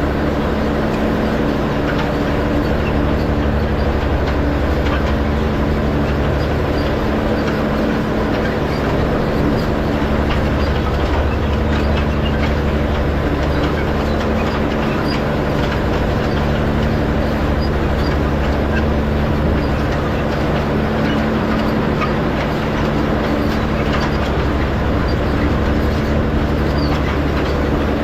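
Tractor engine running at a steady speed while pulling a hay rake across windrows, with a light rattling clatter from the rake.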